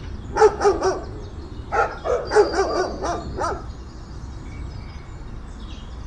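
Dog barking: three quick barks, then a longer run of about six barks, stopping about three and a half seconds in.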